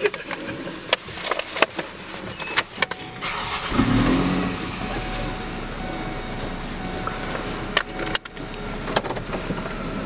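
Clicks and rustling of things being handled inside a car, then, about four seconds in, the car's engine comes on and runs steadily.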